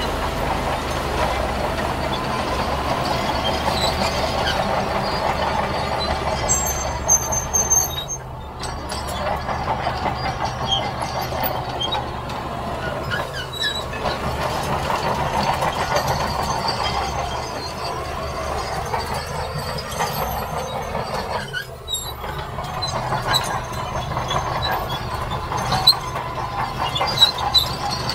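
Heavy earthmoving machinery working in sand: a steady engine and track running sound, with metallic clanking and brief high squeaks from the steel tracks.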